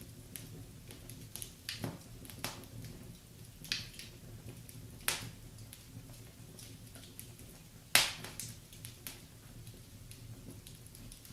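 Wood fire crackling in a fireplace: a low steady bed with scattered sharp pops and snaps, the loudest one about eight seconds in.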